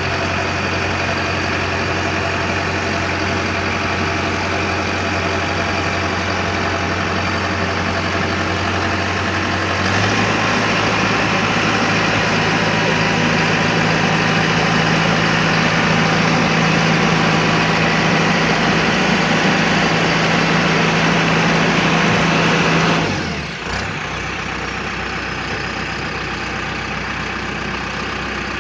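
LS Plus 100 tractor's diesel engine running steadily. About ten seconds in it is revved up to a higher steady speed and held there. Near the end the revs drop back quickly to a lower steady run.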